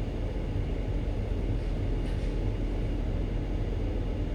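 Steady low rumble of a ship's diesel engine running while the vessel manoeuvres at slow speed.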